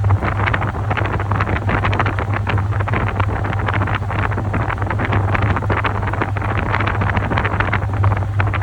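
Top-loading washing machine running: a steady motor hum under continuous churning and sloshing of water and laundry in the tub.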